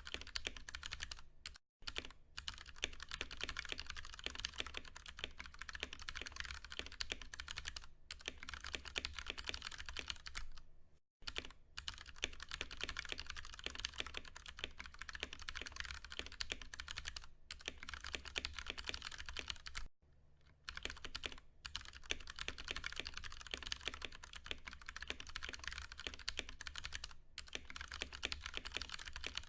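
Continuous typing on a Ducky One 2 Mini mechanical keyboard with tactile Cherry MX Brown switches: a dense patter of keystrokes, broken by brief pauses about two, eleven and twenty seconds in.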